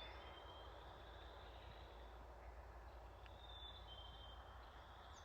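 Near silence of a quiet woodland, with a few faint, thin high whistled notes from distant songbirds.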